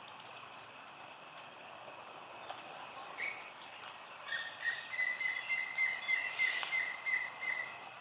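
Bird calling over faint outdoor background noise: from about four seconds in, a rapid run of short repeated notes with higher notes above it, continuing almost to the end.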